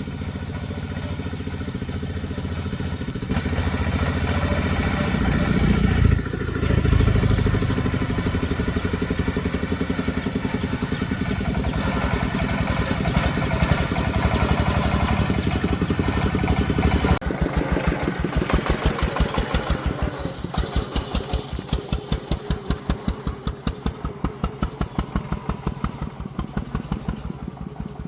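Engine of an agricultural timber-hauling vehicle running, louder for a few seconds around six to seven seconds in. From about seventeen seconds in it settles into slow, even chugging beats, a few a second.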